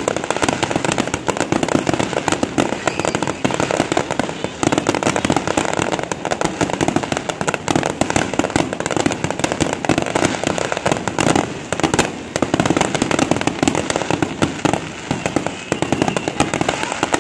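Aerial fireworks bursting in rapid, unbroken succession: a dense, continuous crackle of sharp reports with no pause.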